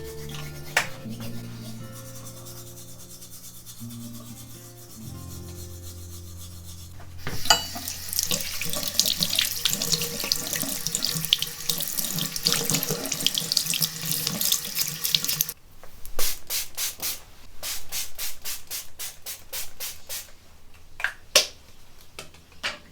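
Tap water running into a sink for about eight seconds, starting after soft background music and stopping suddenly. It is followed by a quick series of short rubbing strokes, several a second.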